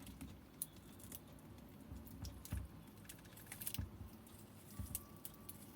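Faint scattered clicks, creaks and soft knocks as two glued-together halves of an e-bike lithium-ion battery pack, cells sitting in cell holders, are strained apart by hand; the old glue is still holding.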